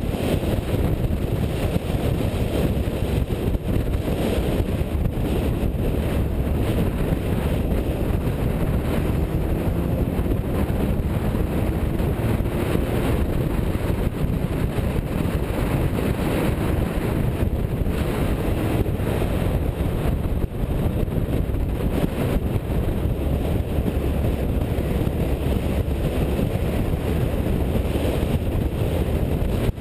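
A car being driven, with a steady low rumble of engine and road noise and wind buffeting the microphone.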